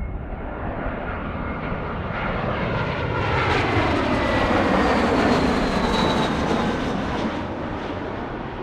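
Jet airliner passing close by: its engine noise swells to a peak about halfway through, then fades, with whining engine tones falling in pitch as it goes past.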